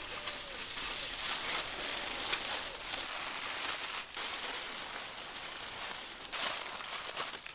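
Steady crackling hiss from the tandoor with the beef leg cooking inside, beginning abruptly.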